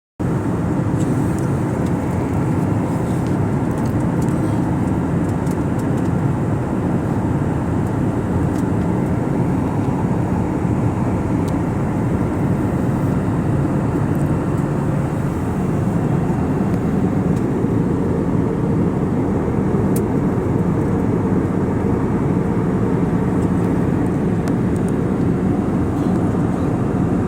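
Passenger airliner's engine and air noise: a steady, low, even rumble that does not change.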